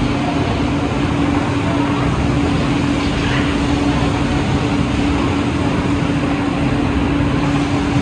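Woodmaster WM-2800-S2R4 heavy-duty two-way boring and milling machine running: a loud, steady mechanical drone with a constant hum over dense noise.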